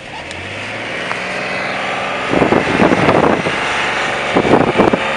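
Detroit Diesel 6V71 two-stroke V6 diesel of a GM Classic city bus pulling away under load, heard through an open car window. It grows steadily louder and breaks into a loud, dense rasp about two seconds in.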